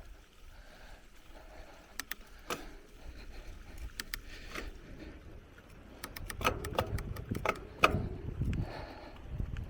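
Bicycle rolling over a rough forest trail: low tyre and wind rumble with sharp clacks and rattles from the chain and frame over bumps. They come now and then at first, then pile up thickly about six to eight seconds in as the rumble grows.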